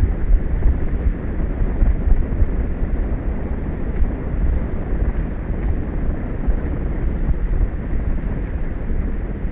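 Wind buffeting an outdoor microphone high above the open ocean: a steady, low rumbling rush with no pauses.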